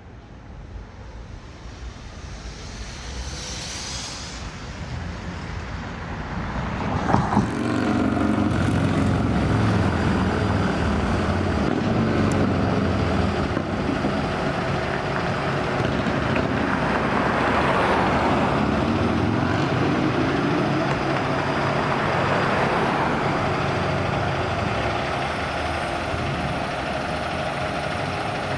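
Heavy road vehicle, such as a fire truck, approaching and passing close by with its engine running: it grows louder over several seconds, then stays loud. There is a short loud sound about seven seconds in.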